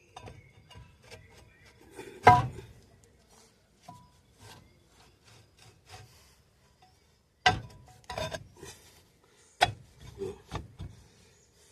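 Rear brake drum of a VW Kombi being fitted onto the hub: metal scraping and small clicks, with a few sharp ringing metal clanks, the loudest about two seconds in and two more later on.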